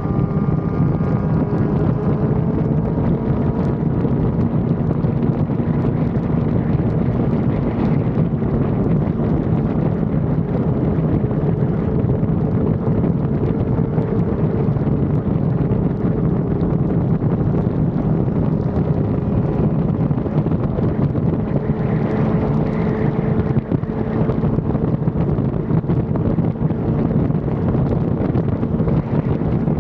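Sport motorcycle's inline-four engine running at a fairly steady speed, its pitch drifting only slightly, under heavy wind noise buffeting the action-camera microphone.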